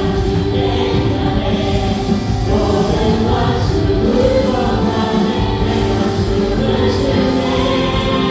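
Praise band playing a worship song with keyboards, guitar, bass and drums, and voices singing along.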